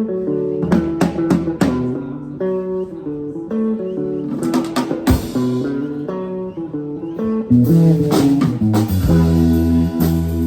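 A band playing instrumental music: guitar over bass and drums, with notes that change every fraction of a second and regular drum hits.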